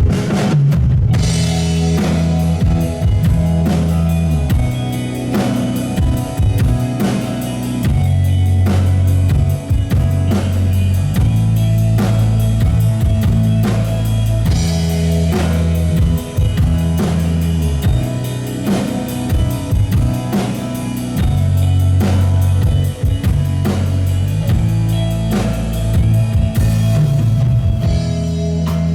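Live rock band playing an instrumental passage at full volume: drum kit keeping a steady beat with bass and guitar, heard through a concert hall's PA.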